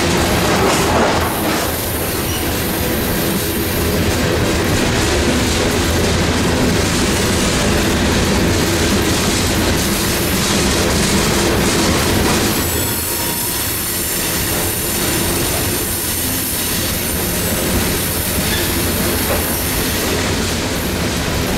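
Covered hopper cars of a coke freight train rolling past, their wheels clacking over the rail joints. A high, steady wheel squeal comes in about a second in, fades out, and returns from about halfway to near the end.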